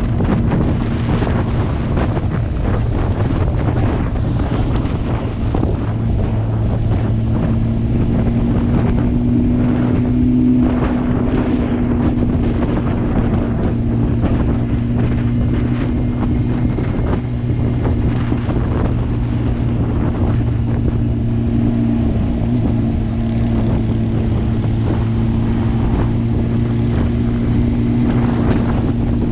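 Motorcycle engine running at a steady pitch while cruising, under heavy wind noise on the microphone. The engine tone rises slightly about eight seconds in and otherwise holds steady.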